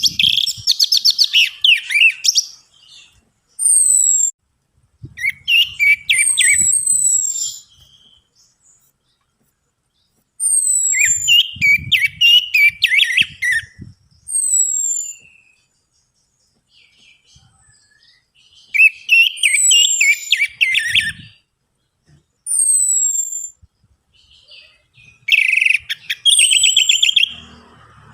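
Orange-headed thrush song in separate phrases with pauses between them. Each phrase mixes high, downward-sliding whistles with rapid trilled chatter. Played as a lure song to coax a reluctant thrush into singing.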